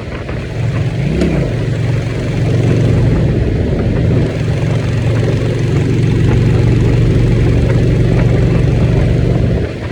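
Motorcycle engine running steadily under way, with a brief rev up and back down about a second in; the engine eases off near the end.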